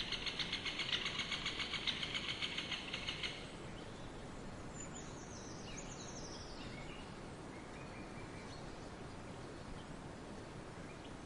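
Forest ambience with a steady background hiss. A loud, rapid, pulsing trill runs for the first three seconds or so and then stops. A few short, high, falling bird calls follow a couple of seconds later.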